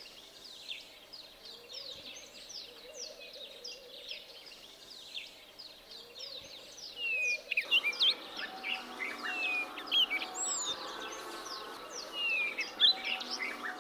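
Many small birds chirping and singing in quick, overlapping short calls. About eight seconds in, a denser, lower background sound starts underneath and continues to the end.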